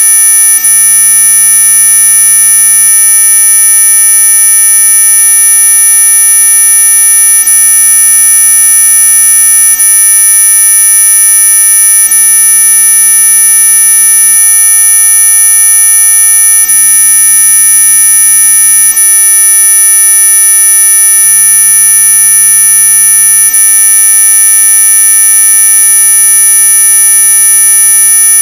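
Electronic anti-mosquito repellent tone: a loud, steady, shrill whine made of many constant pitches stacked together, from a low buzz up to a very high squeal, not changing at all.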